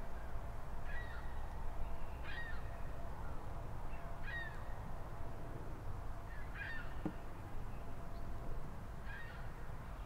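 Birds calling: about five short calls, each with a slightly bending pitch, spaced roughly two seconds apart, over a steady low rumble.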